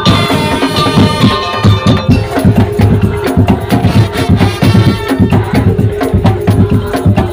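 Madurese musik daul ensemble playing live: a fast, dense rhythm of drums and wood-block knocks under a held melody line.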